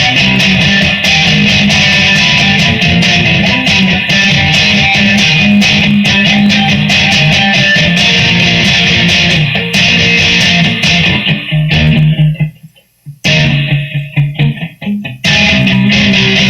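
Guitar strummed in a loud instrumental passage with no singing. About twelve seconds in the strumming stops for a moment, comes back as a few choppy, separated strokes, then full strumming resumes near the end.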